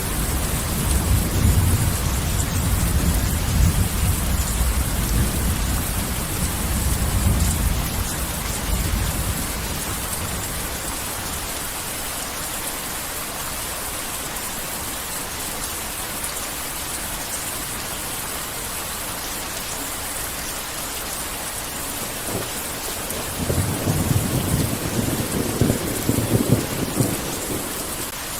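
Heavy rain falling steadily, with thunder rumbling twice: a long low roll through the first several seconds and another a few seconds before the end.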